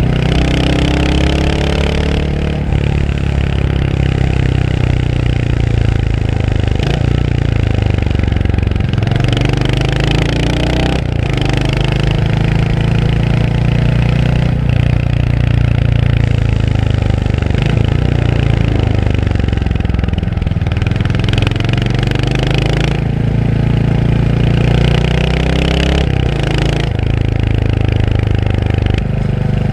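Royal Enfield Hunter 350's single-cylinder engine under way. Its pitch climbs and drops repeatedly as the throttle opens and closes, with short breaks between the climbs.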